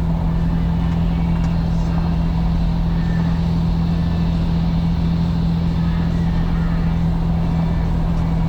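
Steady drone of a 4WD vehicle's engine and road noise at constant speed, heard from inside the cabin.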